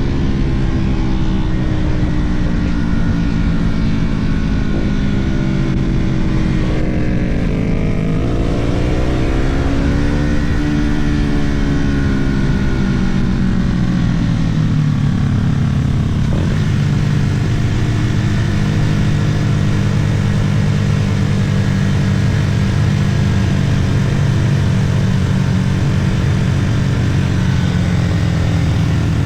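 Sport motorcycle engine heard from on board at speed. The revs climb and then fall away around the middle, then hold fairly steady in the second half, under a constant rush of wind.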